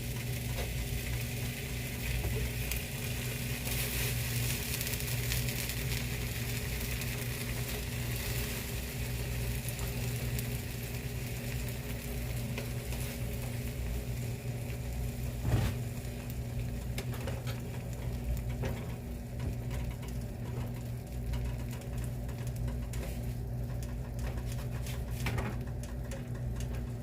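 Turkey bacon strips frying in olive oil in a skillet: a steady sizzle, strongest over the first several seconds and easing a little later on. A single knock sounds about halfway through.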